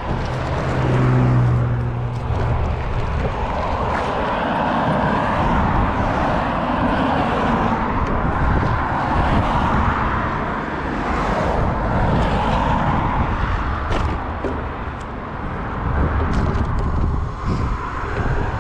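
Steady rushing noise of cycling picked up by a bike-mounted action camera: wind and tyre noise, with a short low hum about a second in.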